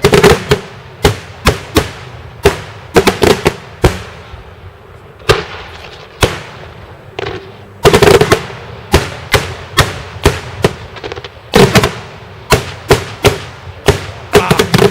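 Daytime festival fireworks: a rapid series of loud, sharp bangs, irregularly spaced, from one to several a second. The bangs bunch into denser volleys right at the start, about 8 seconds in and about 12 seconds in, and each one rings out briefly.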